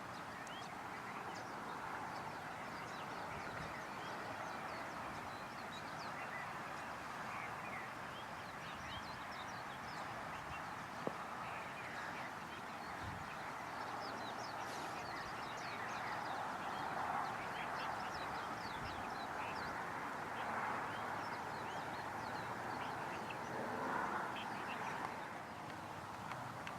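Birds calling: many short, high chirps scattered over a steady hiss, with a few louder calls swelling up in the second half and a single sharp click about eleven seconds in.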